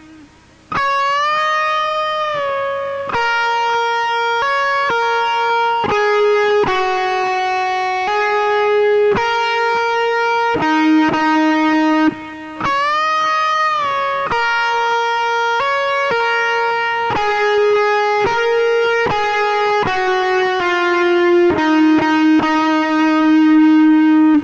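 Guitar playing a single-note solo melody in E-flat minor, with held, sustained notes and string bends about a second in and again near thirteen seconds; it ends on a long held note.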